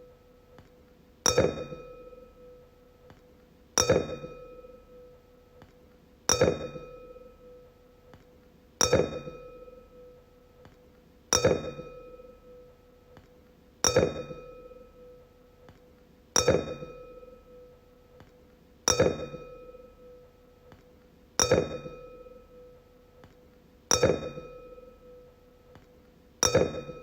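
Wine glass struck again and again, about every two and a half seconds, each tap ringing out in one clear tone with fainter higher overtones that dies away before the next tap.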